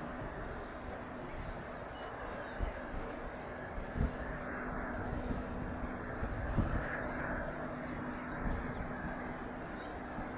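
Business jet engines running steadily in the distance, with a faint steady hum and a few low thumps of wind on the microphone.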